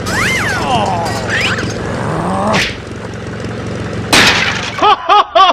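Edited-in cartoon sound effects over a steady background: a swooping glide at the start, a sharp smash-like burst, a louder crash-like burst about four seconds in, then quick bouncy notes near the end.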